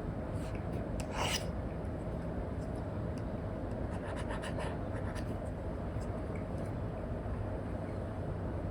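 Apple Pencil Pro tip scratching across a paper-textured screen protector on an iPad as lines are sketched: a longer stroke about a second in and a cluster of short scratchy strokes around four to five seconds in. A steady low background noise runs underneath.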